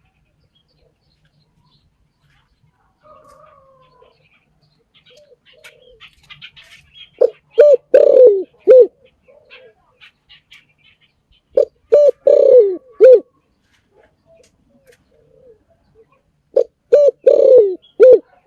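Spotted dove cooing: three loud phrases of several rounded coo notes each, about four seconds apart. Faint chirps of small birds come in between.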